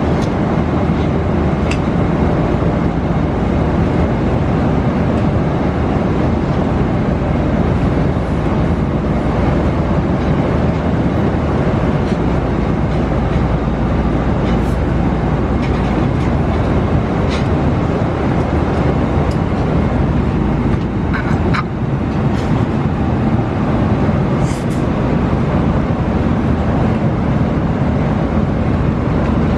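Steady roar of an airliner cabin in flight: engine and airflow noise, with a few faint clicks.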